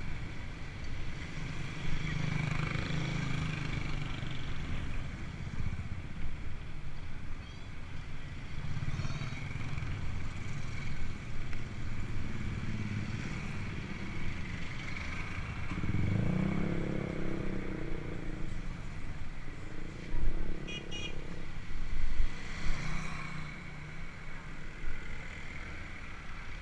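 Motorcycle engines running along the road, one growing louder and shifting in pitch about two-thirds of the way through.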